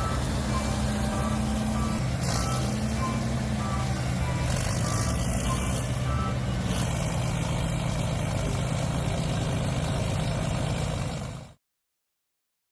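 Heavy diesel machinery running steadily, with a reversing alarm beeping at intervals. The sound cuts off abruptly near the end.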